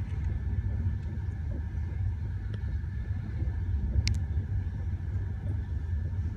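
Steady low rumble of a moving passenger train heard from inside the carriage, with a faint steady high tone and one sharp click about four seconds in.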